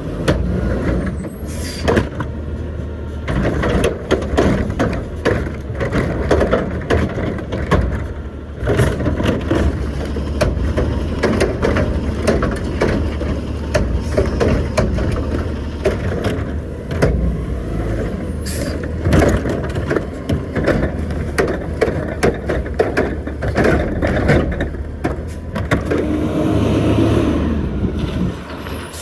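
Garbage trucks at work: diesel engines running steadily under repeated clanks and bangs.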